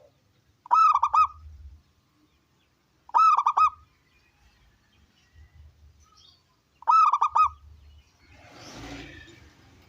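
Local zebra dove (perkutut) cooing: three short phrases of quick staccato coos, about three seconds apart. A brief, softer noisy rustle follows near the end.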